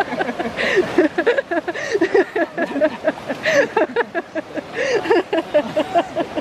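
Several people's voices overlapping, chattering and calling out, with no one voice standing out.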